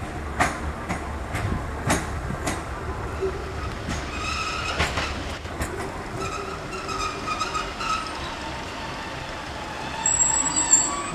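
Class 156 diesel multiple unit drawing slowly into a platform: its wheels click sharply over rail joints and points about twice a second at first, then a high, wavering squeal sets in, with a higher, sharper squeal near the end as the train slows to a stop, over a steady low diesel rumble.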